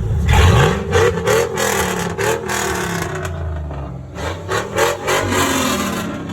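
Car engine revved hard several times in quick bursts, its pitch rising at the first blip, with sharp crackles through the revs. It dies down near the end.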